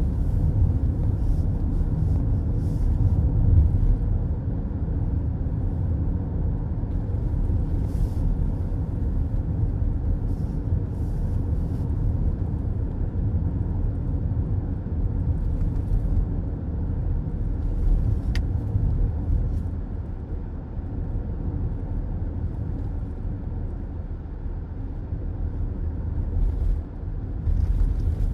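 Steady low road rumble of a car driving at speed, heard from inside the cabin.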